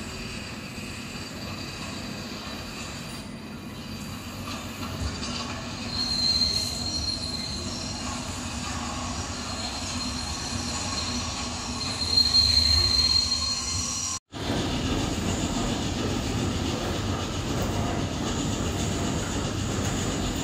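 A railway train running on the track with a steady rumble, its wheels giving a high squeal twice, about six seconds in and again about twelve seconds in. The sound cuts out for an instant about two-thirds of the way through, and a fuller, lower rumble follows.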